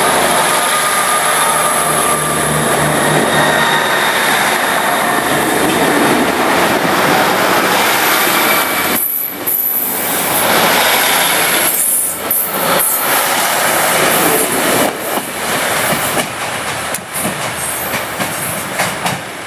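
Diesel multiple unit passing close by on the rails: a loud, dense rush of wheel and rail noise with thin squealing tones in the first half. From about halfway the noise turns choppy, with brief dips and clatter as the train goes past, and it fades a little near the end.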